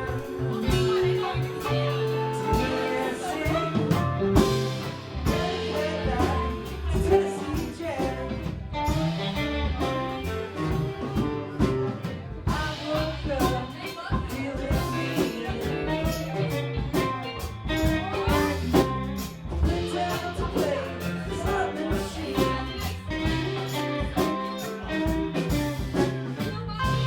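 Live band playing a bluesy rock song, with guitar, bass, drums and singing.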